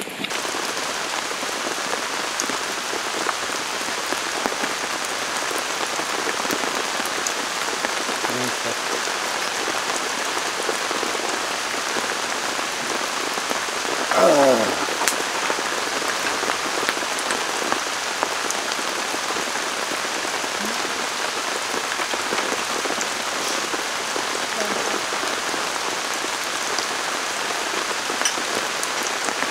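Heavy rain pouring steadily, a dense, even hiss. About halfway through, a brief sound slides sharply down in pitch; it is the loudest moment.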